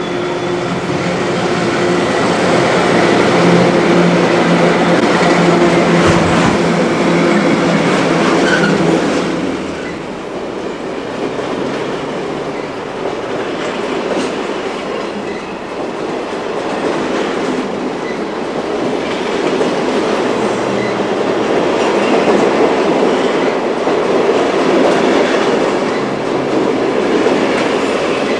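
Diesel locomotive hauling the Indian Pacific passes close by, its engine note steady and loudest for the first ten seconds or so. Then its stainless-steel passenger carriages roll past with wheel noise and repeated clacks.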